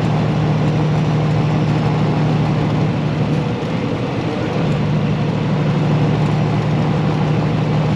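Heavy truck's engine droning steadily on the road, with a brief dip in level about halfway through.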